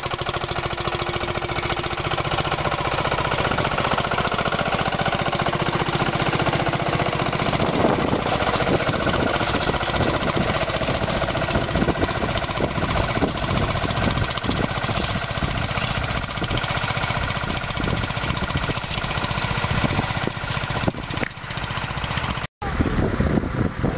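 Antique tractor engine running steadily, most likely under load while plowing, with a rapid, even beat of firing strokes. The sound cuts out for an instant near the end, then picks up again.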